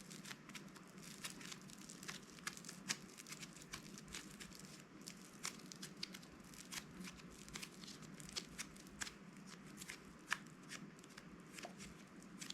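Hands squishing and working crunchy slime, with irregular crackles and small sharp pops.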